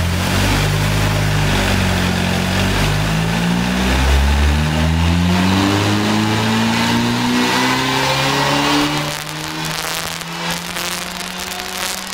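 KTM X-Bow R's turbocharged 2.0 TFSI four-cylinder, on a Stage 1 remap, revving up under full load on a chassis dyno, its pitch climbing steadily for about nine seconds. Then it comes off load: the engine gets quieter and the exhaust crackles and pops on the overrun.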